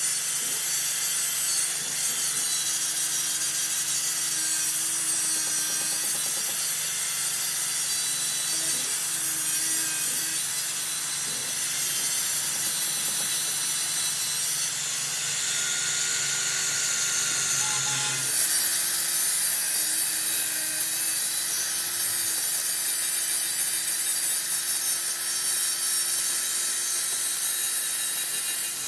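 A steady rasping noise of a tool working metal, which changes in texture a little past halfway.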